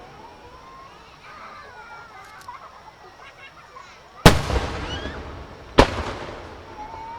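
Aerial fireworks shells bursting: two loud booms about a second and a half apart past the middle, each trailing off in a long rumbling echo. Before them, crowd voices over the quieter lull.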